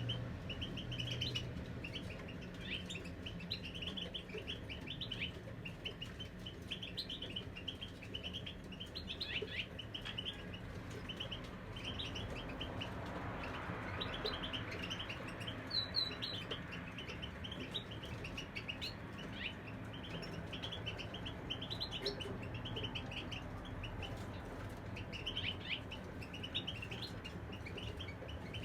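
European goldfinches singing: a continuous run of quick, high twittering chirps, with a faint low hum underneath.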